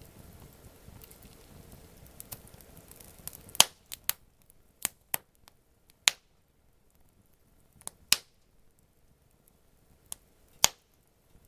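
Wood campfire crackling, then a run of sharp single pops and snaps from burning wood, about one every second, starting about a third of the way in.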